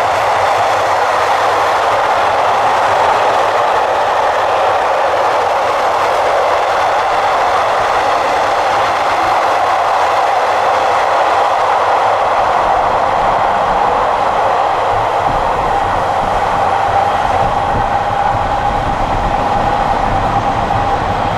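Passenger train running steadily on the rails: a loud, even rolling noise with a constant tone in it and a low rumble that grows a little toward the end.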